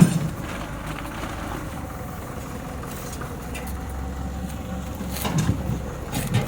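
Mini crawler tractor's engine running steadily at idle, with a sharp knock at the start and a few dull thumps near the end.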